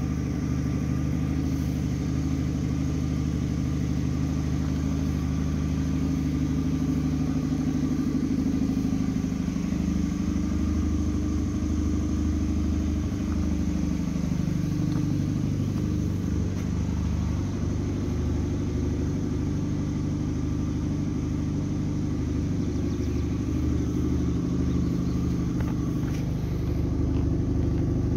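Car engine running steadily. Its pitch shifts up and down about a third to halfway through as the revs change, then settles.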